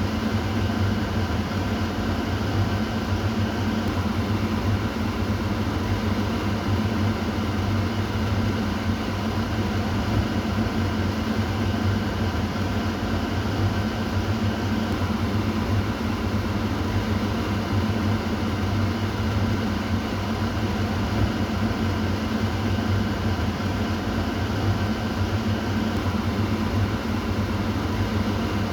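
Kitchen exhaust fan running steadily: a low motor hum under an even rush of air, with no change in speed.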